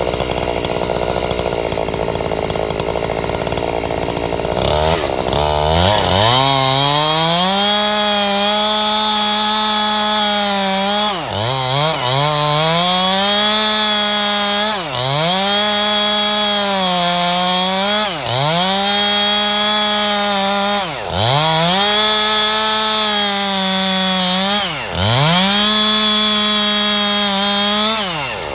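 Gas chainsaw ripping a log lengthwise into a beam. It runs at a lower speed for about five seconds, then revs up to full speed; its pitch dips sharply and recovers about five times, every three to four seconds.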